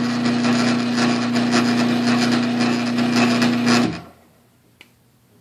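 LiftMaster 1245LM garage door opener motor running with a steady electric hum and a rattling mechanical drive noise, stopping about four seconds in.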